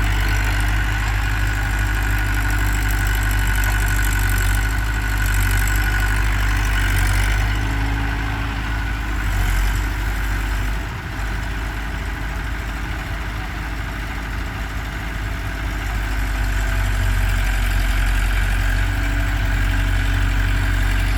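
Heavy diesel engine idling steadily, a little quieter for a few seconds in the middle.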